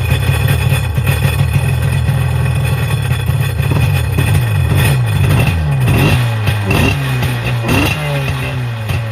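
1996 Tigershark jet ski's two-stroke engine running loudly on gas poured into the carburettor throat, revved up and down repeatedly in the second half. It is not yet fed by its own fuel pump.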